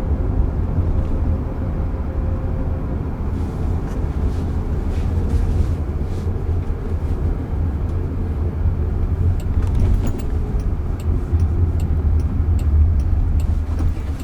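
Road and tyre noise heard from inside the cabin of a moving Waymo robotaxi: a steady rumble, with a faint tone that rises and then falls slightly in the first few seconds.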